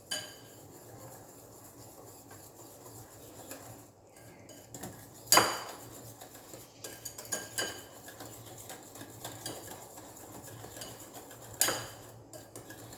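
A utensil mixing cake batter of creamed butter, eggs and powdered sugar in a bowl, with many small clicks and scrapes against the bowl and a few louder clinks, one about five seconds in and one near the end.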